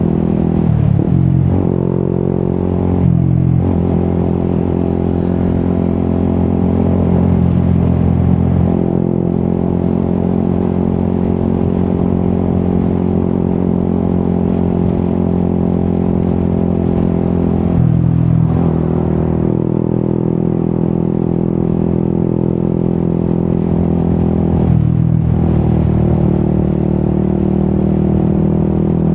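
Yamaha XSR 155's single-cylinder engine through an Akrapovic aftermarket exhaust, running under way at a steady note. The note breaks off briefly and comes back at a new pitch about four times, as between gears.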